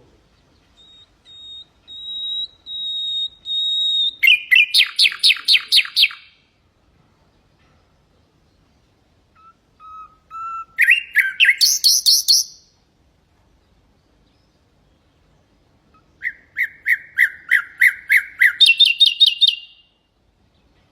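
Nightingale singing three separate phrases. The first opens with a long, steady whistle that swells in loudness, then breaks into a fast run of loud repeated notes. The later two phrases are rapid trills that switch partway through to a higher-pitched run of notes.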